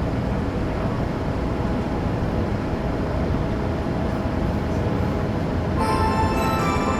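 Steady low rumble of a Tokyo Metro 05 series subway train at a station platform. About six seconds in, a bright multi-tone electronic chime starts up over it.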